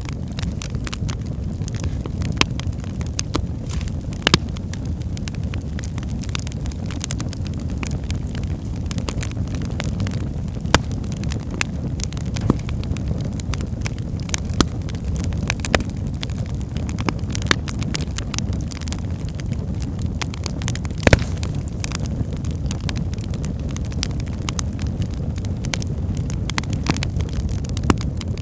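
Wood fire burning in a fireplace: a steady low rumble of flames with frequent irregular crackles and sharp pops from the burning logs, a few of them louder.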